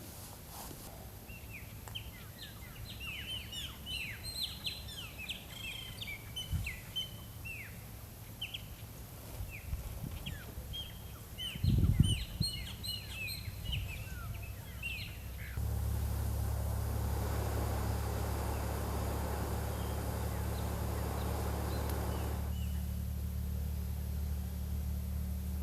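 Small birds chirping in quick, short, falling calls, with one loud thump about halfway through. About two-thirds of the way in the chirping gives way to a steady low rumbling noise.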